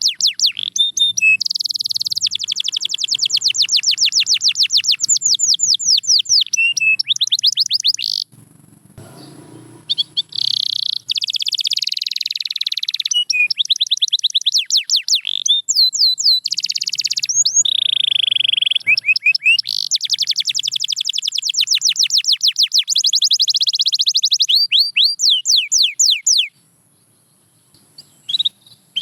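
Domestic canary singing long, high trills of rapidly repeated notes. The song breaks for about two seconds about eight seconds in, then stops a few seconds before the end.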